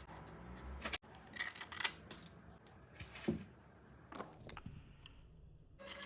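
Scattered clicks and short rustles from handling and working small cardboard pieces, with a sudden break about a second in.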